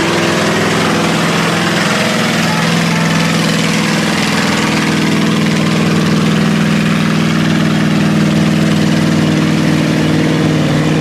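A truck engine running steadily at a near-constant speed close by, over a loud, noisy background.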